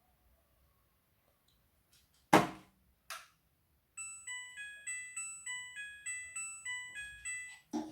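Two sharp knocks, the first the loudest sound. Then the Midea front-loading washing machine's control panel plays a short electronic tune of quick beeps at several pitches, followed by another knock near the end.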